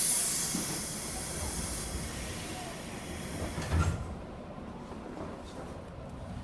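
Compressed air hissing from a JR West 201 series electric train. It starts abruptly and loud, then fades away over about four seconds, with a short knock near four seconds in.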